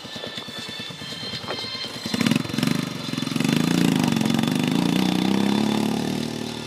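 Motorcycle engine idling with an even, rapid low pulse, then revved about two seconds in, its pitch rising and falling as the throttle is blipped.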